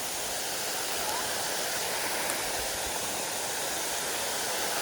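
Mountain stream water rushing steadily, an even unbroken rush.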